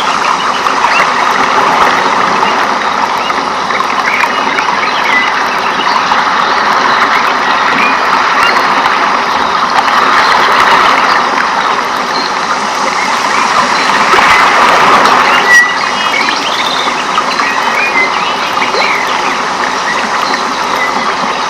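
Rainforest ambience: a steady, dense wash of sound with many short chirps and calls of birds, frogs or insects over it, and one brief sharp whistle about three quarters of the way through.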